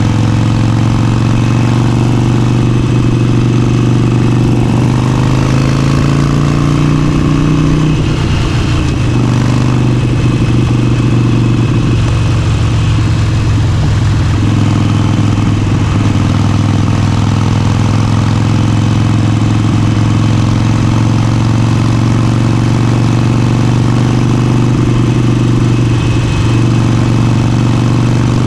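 Motorcycle engine running under way at a steady, loud level. Its note climbs for a few seconds, drops about eight seconds in, then holds steady.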